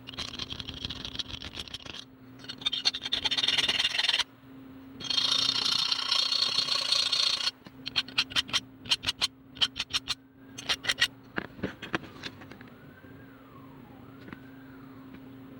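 Scraping and rubbing in two long stretches, then a quick run of sharp clicks or taps, over a steady low hum.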